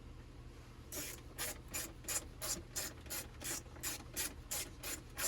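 Rhythmic rubbing or scraping strokes, about three a second, starting about a second in.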